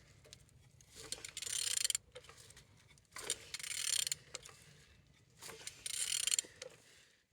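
Renault M9R 2.0 dCi diesel engine being turned over by hand with a wrench, in three strokes about two seconds apart, each lasting about a second. The engine turns freely: it is not seized.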